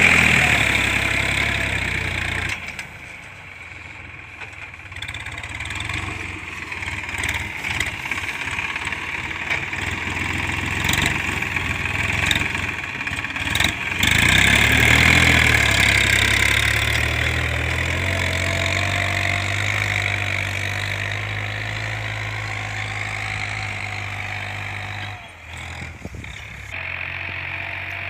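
Massey Ferguson 7250 DI tractor's three-cylinder, 2700 cc diesel engine running. It is loud at first and quieter with scattered knocks from a few seconds in, then swells again about halfway through and settles into a steady idle.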